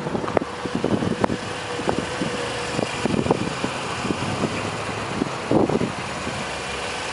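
A Toyota Corolla's 1.6-litre four-cylinder engine idling with a steady hum, with scattered light clicks and knocks over it.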